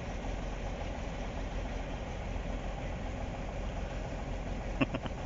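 Kirovets K-700 tractor's diesel engine running steadily while loading firewood, with one short knock near the end.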